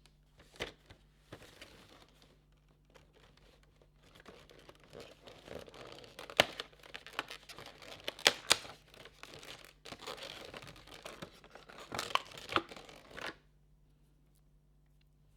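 Advent calendar packaging being torn open and crinkled by hand, with a few sharp clicks and snaps among the rustling, stopping abruptly near the end.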